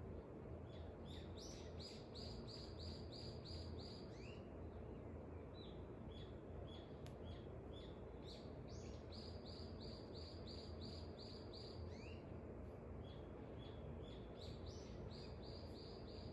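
A songbird singing faintly, a quick run of about eight even, high notes repeated three times, with single chirps in between, over a steady low background noise.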